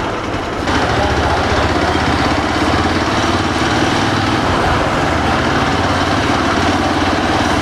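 Hero XPulse 200 motorcycle's single-cylinder engine running steadily at low riding speed, with rushing wind and road noise. It gets a little louder just under a second in.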